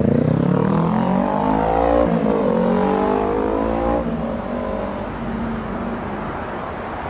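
A motor vehicle's engine accelerating through the gears. Its pitch climbs, drops sharply about two seconds in at an upshift, and climbs again. After about four seconds it settles lower and fades.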